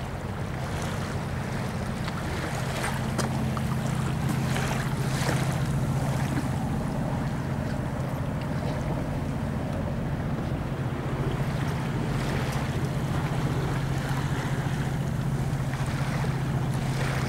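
A motorboat's engine running steadily under way, a low even hum, with water rushing along the hull and wind noise.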